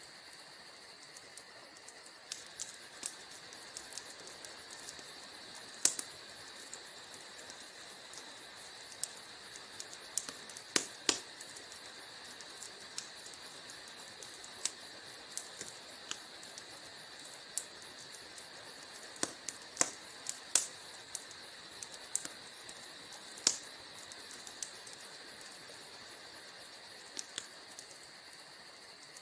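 Wood fire crackling in a fireplace: a steady hiss of burning with a dense run of small irregular snaps and a few sharp, louder pops scattered through.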